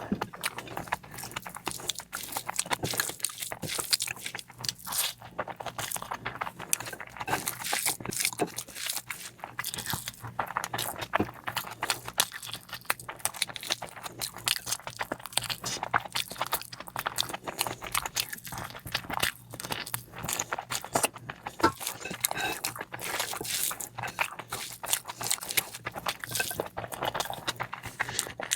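Close-miked eating sounds: a person chewing and biting a curry meal, with a dense run of short, sharp mouth clicks and crunches.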